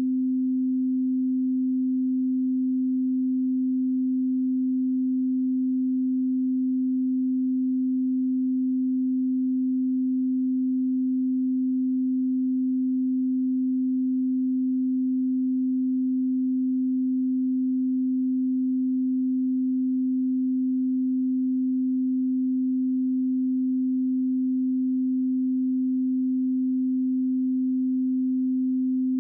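A steady 258 Hz pure sine-wave calibration tone, one unchanging low hum-like pitch with no overtones.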